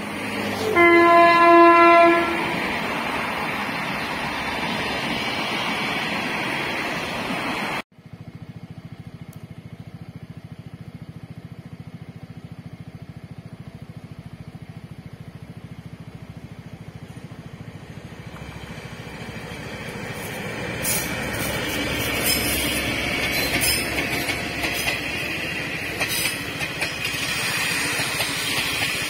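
Taiwan Railway blue-carriage train hauled by diesel locomotive R40 sounds one horn blast of about a second and a half as it crosses a viaduct, over the splashing of a fish-pond aerator. After a cut, the train comes into a station and rolls slowly past, its running sound building and its wheels clicking over rail joints and points.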